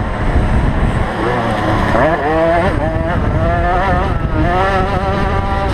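Small two-stroke motocross bike engine revving hard, its pitch rising and falling repeatedly as the throttle opens and closes, with a sharp climb about two seconds in.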